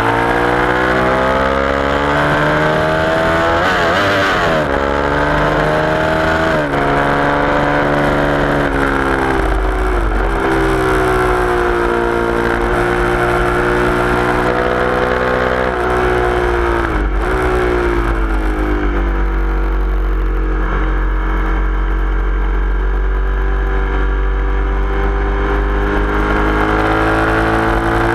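Sport motorcycle engine at high revs on track, its pitch climbing and falling repeatedly through gear changes and braking for corners, heard with heavy wind rush over the bike.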